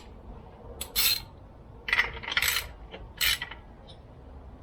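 Metal hand tools and parts clinking and rattling in three short bursts about a second apart.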